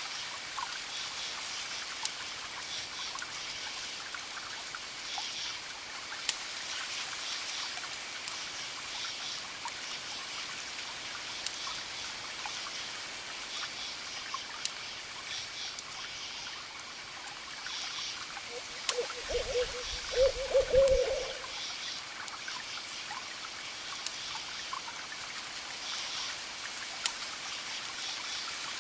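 Campfire crackling with sharp little pops, crickets chirping in repeated pulses, and the steady hiss of distant waves. About two-thirds of the way in come two low hoots close together, the loudest sound.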